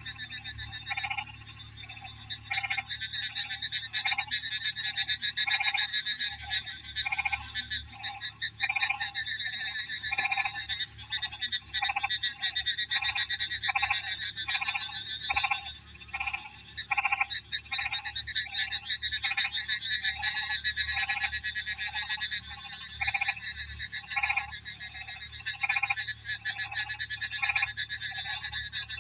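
A chorus of frogs calling during the monsoon: repeated pulsed croaks, about one to two a second, over a steady high trill.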